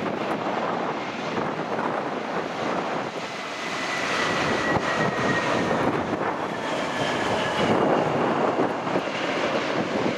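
Airliner engines running as a plane passes, a broad roar with a thin whine that falls slightly in pitch partway through.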